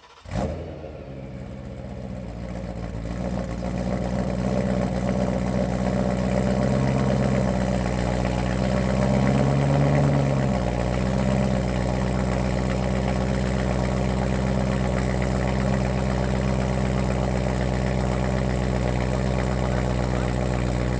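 BMW E92 M3's S65 V8 firing up through a full stainless Valvetronic Designs V2 exhaust with the valves open. It catches about half a second in, idles up a little and drops back about ten seconds in, then settles into a steady idle that is really loud.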